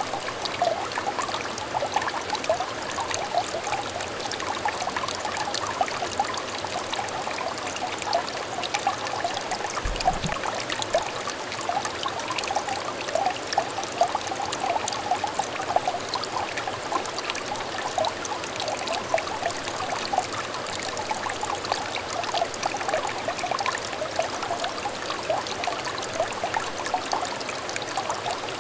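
A small shallow stream trickling and babbling steadily, with many small bubbly splashes. A brief low thump about ten seconds in.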